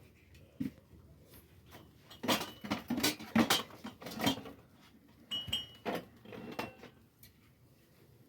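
Dishes and metal utensils clinking and knocking against each other in a quick clattering run about two seconds in, then a shorter run about five seconds in, some strikes ringing briefly.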